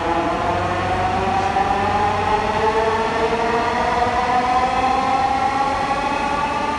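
Electric metro train accelerating, its motor whine climbing slowly and steadily in pitch over a running rumble.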